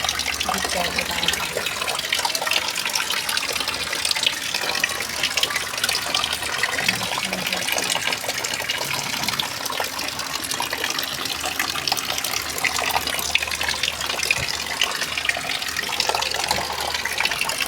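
Heavy rain pouring down steadily, a dense hiss of water splashing and running.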